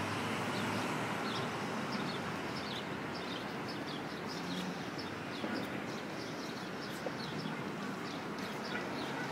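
Small birds chirping with short, high, falling calls, several a second, over a steady outdoor background hiss.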